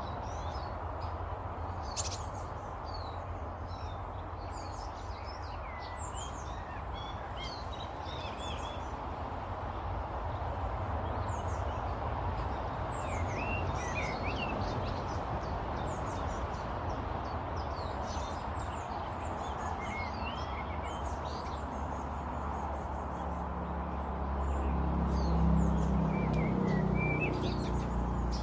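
Several small birds chirping and calling in quick, scattered notes over a steady low rumble, which swells near the end.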